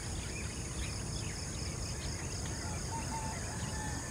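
Insects droning steadily in several high-pitched tones, one of them pulsing in a regular rhythm, with short bird chirps scattered through and a low rumble underneath.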